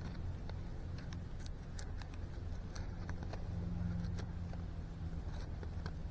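Knife shaving and splitting a piece of soft wood, small scattered clicks and scrapes, over the low steady hum of a distant engine.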